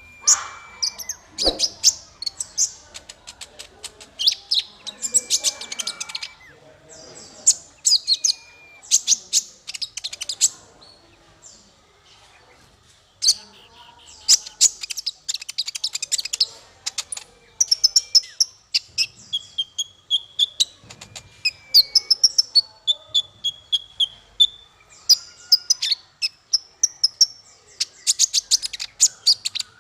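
Small songbird singing a fast, varied song of sharp chirps, rapid trills and short high whistles, in bursts, with a brief pause about halfway.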